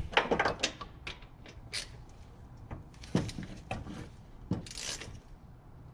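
Irregular clicks and clinks of hand tools being handled, as a 17 mm socket is fetched and fitted to a ratchet, with a cluster of quick clicks about a second in and a brief rustle near the end.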